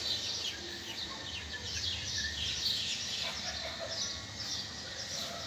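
Small birds chirping busily, many short high calls overlapping one another without a break, over a faint steady background hum.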